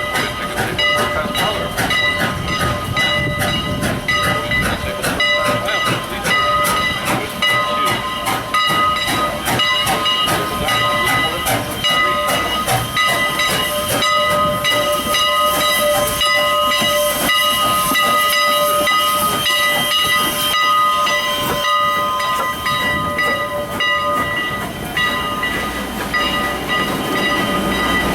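Train hauled by steam locomotive Engine 89 running on the rails: a steady hiss and rapid clicking, with several high ringing tones held throughout.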